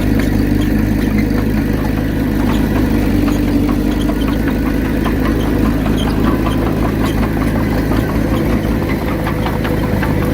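Komatsu D31P bulldozer's diesel engine running steadily, with many small irregular clicks over it.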